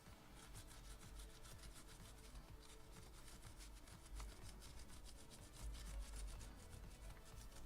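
Faint, rapid scratching and rubbing of a tool worked over the flood-damaged circuit board of a body control module.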